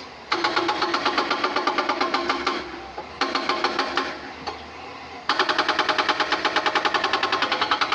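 Hydraulic rock breaker on an excavator hammering stone, in three runs of rapid blows at about eight to nine a second. The first two stop after a couple of seconds and a second or so, with the engine running quietly in the pauses, and the third begins about five seconds in and keeps going.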